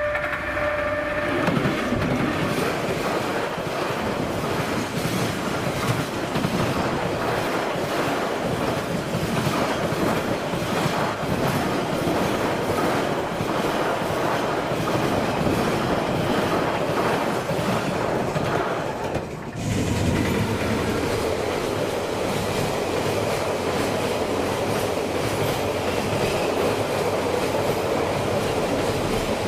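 A diesel locomotive's horn note ends about a second and a half in as the locomotive passes close by. Then a long train of container wagons rolls past, its wheels clicking over the rail joints in a steady clickety-clack. The sound breaks off for a moment about two-thirds of the way through and picks up again with container wagons still rolling past.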